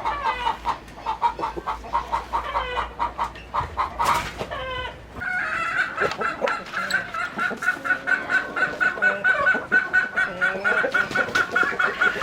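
Chickens clucking in a run of short repeated calls. About five seconds in, a fast, even string of clucks takes over, around six a second.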